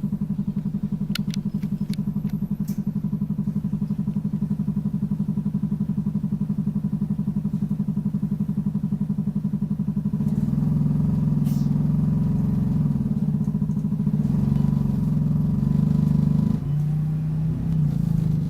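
Optare Solo bus's diesel engine running, a steady low hum heard from inside the bus, growing louder about ten seconds in. A few light clicks sound about one to three seconds in.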